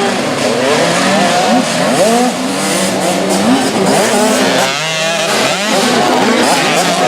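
A pack of 65cc two-stroke motocross bikes racing, several engines revving up and down over one another.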